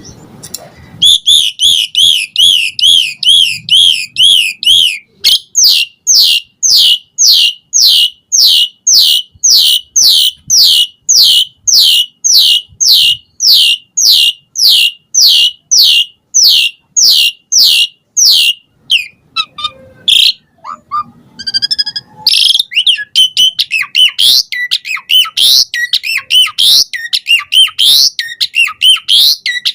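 Asian pied starling (jalak suren) singing loudly: a quick run of repeated whistled notes, then a long, even series of sweeping whistles about two a second, a short break, and a varied jumble of chattering notes near the end.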